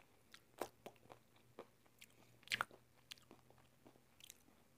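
Faint chewing of crispy fried chicken: a few soft, scattered crunches with the mouth closed, the clearest about half a second in and again around two and a half seconds.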